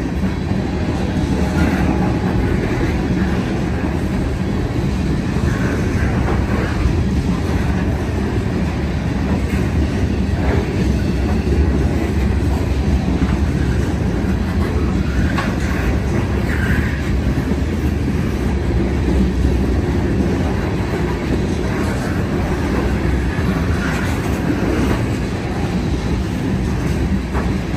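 Train rolling along the track: a steady heavy rumble of wheels on rail with scattered faint clicks.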